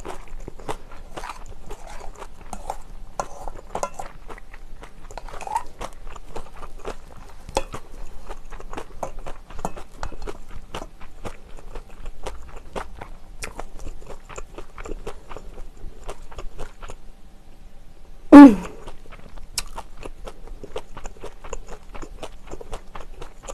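Close-miked chewing and crunching of herring-roe bibimbap, many small wet clicks and crackles, with a plastic spoon scraping and tapping in a stainless steel bowl. A brief loud voiced sound about 18 seconds in.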